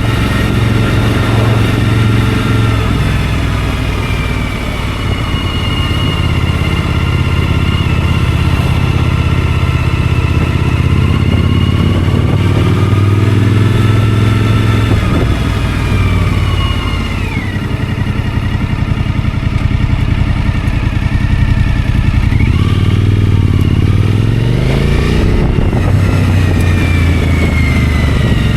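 Suzuki V-Strom motorcycle engine running under way, its note rising and falling with the throttle. About three-quarters of the way through, it revs up steadily as the bike accelerates.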